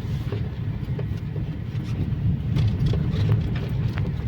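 Steady low roar of a waterfall's falling water, with a few faint clicks.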